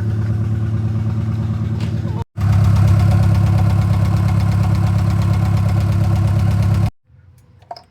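Turbocharged Honda F23 inline-four engine idling with a misfire. It is cut off briefly just after two seconds, comes back louder, then stops abruptly near the end.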